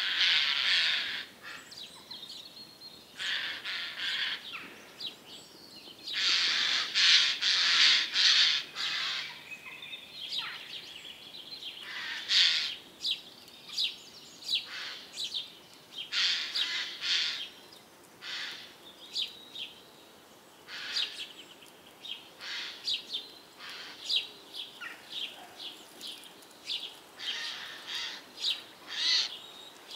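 Birds calling and chirping in irregular flurries of short, harsh calls, loudest in a long flurry a few seconds in, then shorter scattered chirps.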